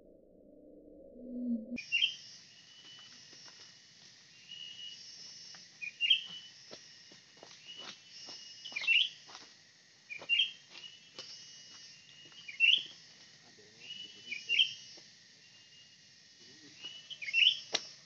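Bird calls starting abruptly about two seconds in: short, sharp, rising chirps repeated roughly every second or two, with some faint ticks between them.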